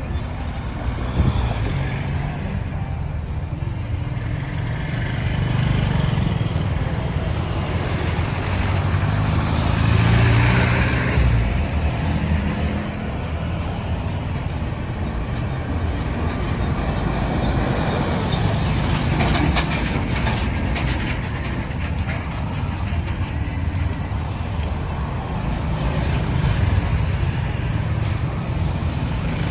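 Road traffic noise: a steady low rumble of vehicle engines and tyres, growing louder for a moment about ten seconds in.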